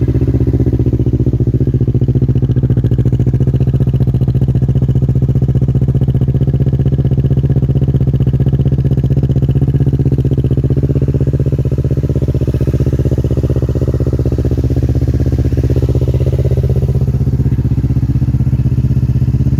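Kawasaki Z650 motorcycle engine idling steadily just after a cold start. It is loud because the baffles are out of its LeoVince exhaust.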